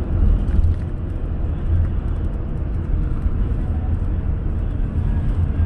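Car driving on a road: steady low rumble of tyre and engine noise.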